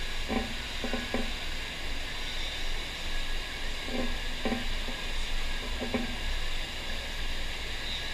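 Steady rushing hiss of water jetting over a FlowRider sheet-wave surf machine, with a few short dull knocks: three in the first second or so, two around four seconds in and one around six seconds in.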